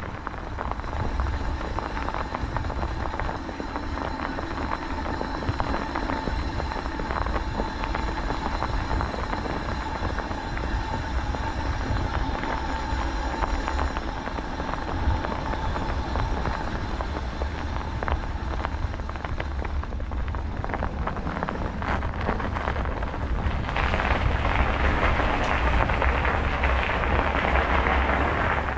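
Riding noise from a bicycle on a winter road: wind rumbling on the microphone over a steady rolling hiss from the tyres. The hiss grows louder and harsher near the end.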